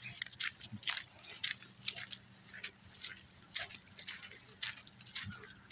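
Footsteps of a person and a dog out walking: a quick, irregular series of soft scuffs and ticks, over a faint low hum.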